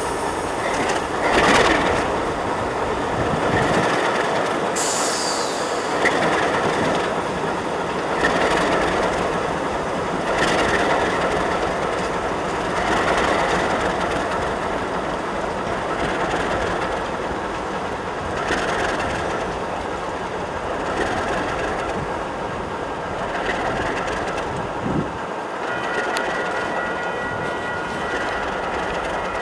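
Freight train rolling past, its cars clattering and rumbling over the rails, swelling every couple of seconds. A faint high wheel squeal comes in near the end.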